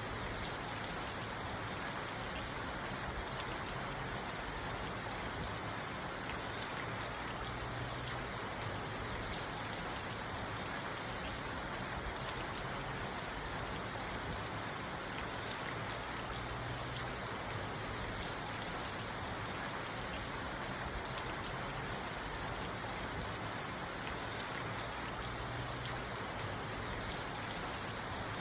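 Steady rain pattering on the roof and windows of a parked car, heard from inside the cabin, with many small drop hits in an even wash.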